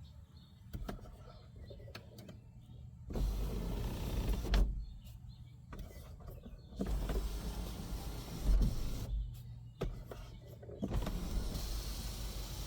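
2006 Lincoln Zephyr's electric sunroof motor running in three stretches, starting about three seconds in, about seven seconds in and about eleven seconds in, as the glass panel moves. A few short clicks fall in the pauses between runs.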